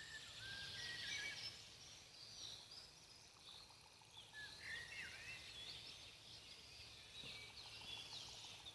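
Faint songbirds chirping and whistling in short, repeated phrases over a soft steady hiss of forest ambience.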